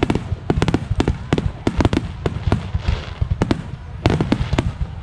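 Aerial fireworks bursting in a rapid barrage: many sharp bangs a second over a continuous low rumble.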